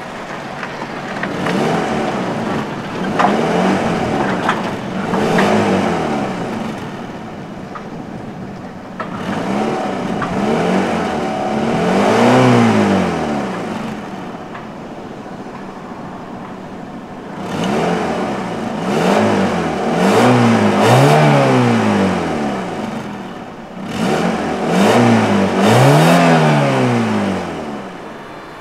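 The 1.0-litre four-cylinder engine of a 1992 Nissan March being revved in short throttle blips, heard from the exhaust. Each blip rises and falls in pitch, in three bursts of several blips separated by steady idling.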